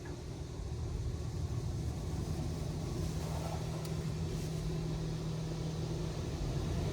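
LaserWash 360 touch-free car wash during its high-pressure rinse, heard from inside the car: a steady wash of water noise with a low machine hum, slowly growing louder.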